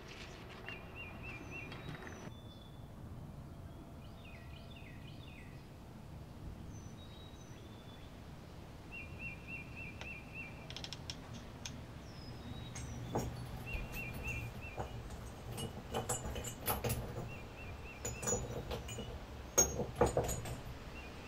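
Small birds chirping in short repeated trills over a steady low hum. From about two-thirds of the way through come irregular knocks and clatter, the loudest near the end.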